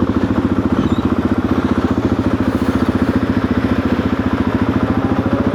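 Suzuki DR-Z400's single-cylinder four-stroke engine running steadily, its exhaust pulses coming fast and even.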